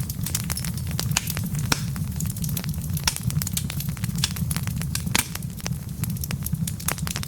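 Wood fire burning in a fireplace: a steady low rumble of flame under many sharp, irregular crackles and pops from the logs.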